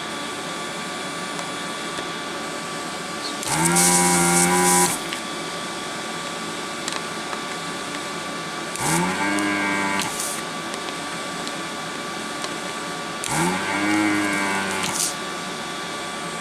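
Pro'sKit SS-331 desoldering station's vacuum pump triggered three times, each run about a second and a half: the motor buzz rises quickly in pitch, then holds steady with a hiss of air sucked through the hot nozzle as it pulls molten solder off the joints. A steady faint hum lies underneath.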